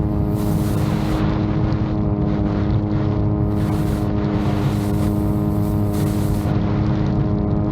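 VTOL drone's propellers running at a steady, unchanging pitch, with gusts of strong wind hissing on the microphone now and then.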